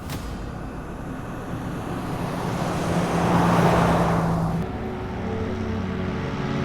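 A motor vehicle passing by: its road noise swells to a peak and then cuts off abruptly about four and a half seconds in, over sustained background music.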